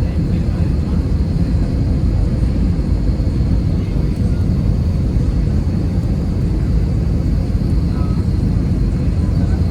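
Steady cabin rumble of an Airbus A320 on final approach, heard from inside the cabin: engine and airflow noise with a faint high whine above it.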